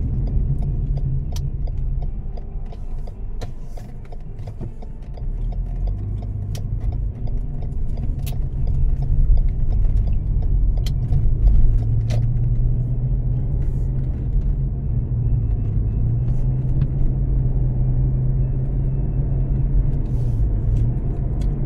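Car engine and road rumble heard from inside the cabin while driving. The engine hum grows louder about six seconds in, with scattered light clicks and rattles over it.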